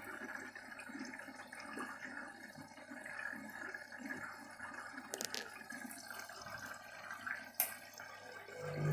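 Candy front-loading washing machine filling with water at the start of its duvet cycle, a low steady trickle and splash of water into the drum, with a couple of sharp clicks. A low steady hum starts near the end.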